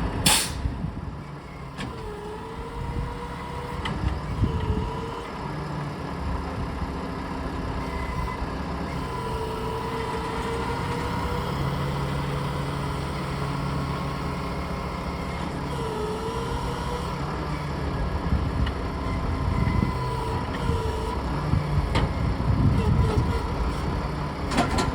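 Roll-off dumpster truck's engine running steadily, with a whining tone that rises and falls several times. A sharp knock comes just after the start and another near the end.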